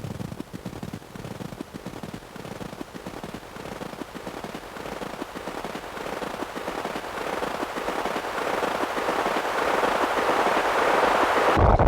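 Distorted electronic noise from a Make Noise modular synthesizer (Strega, Maths, Morphagene) run through Death By Audio Evil Filter and Absolute Destruction pedals: dense, rapid crackling over a noisy wash that swells steadily louder and brighter.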